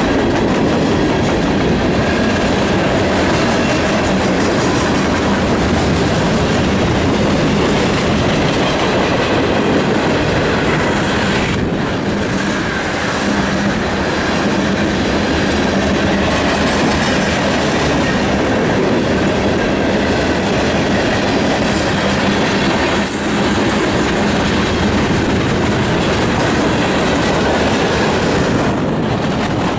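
Freight cars of a long CSX mixed freight train rolling steadily past close by: a loud, continuous rumble of wheels on rail with clickety-clack over the rail joints and some wheel squeal.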